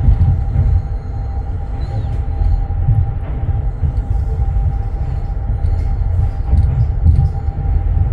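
Sleeper train running, heard from inside a compartment: a loud low rumble that swells and dips, a steady hum, and light scattered clicks and rattles.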